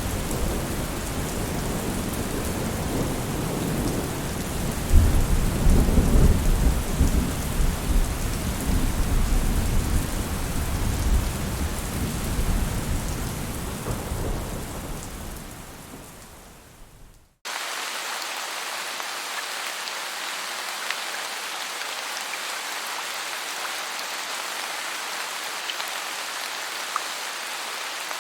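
Steady heavy rain with thunder rumbling in about five seconds in, rolling for several seconds and slowly dying away. Past the middle the sound cuts out for an instant and steady rain carries on without thunder.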